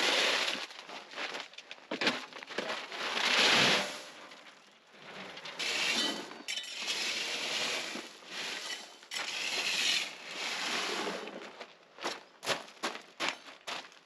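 Gravel chippings crunching as they are spread, in repeated scraping and pouring swells, then a quick run of short, sharp crunches near the end.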